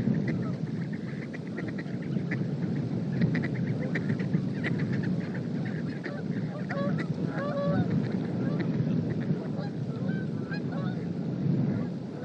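Strong wind buffeting the microphone, with a flock of birds calling over it: quick runs of short notes through the first half, then scattered short calls that rise and fall in pitch.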